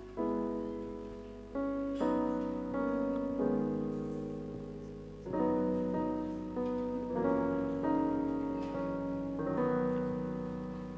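Slow piano or keyboard chords, each struck and left to die away before the next, about every one to two seconds.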